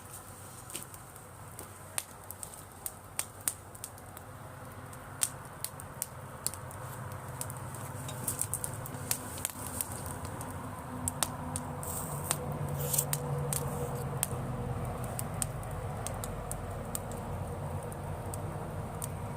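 Driftwood campfire crackling, with irregular sharp pops and snaps. A low rumble swells through the middle and eases off near the end.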